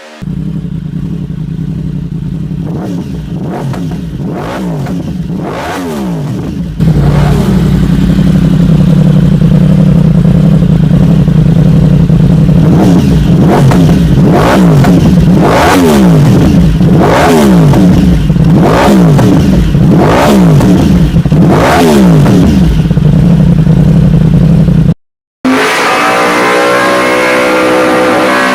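Yamaha YZF-R1M crossplane inline-four idling while the throttle is blipped again and again, each rev rising sharply and falling back to idle. It gets much louder about seven seconds in. Near the end, after a brief break, a steady high engine note.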